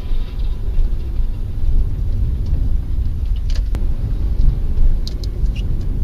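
Low, steady rumble of a car on the move, engine and road noise as picked up by a dashboard camera inside the cabin.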